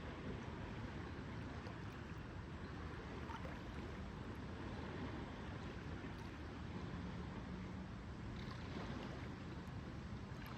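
Lake ambience: water lapping steadily under an even low rumble, with a faint low hum for a second or two about two-thirds of the way through.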